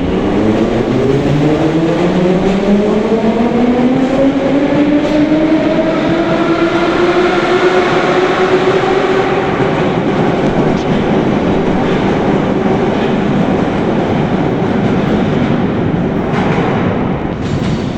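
Moscow metro train's traction motors whining as it pulls away, the whine rising in pitch over the first several seconds and then holding steady, over constant wheel and track rumble.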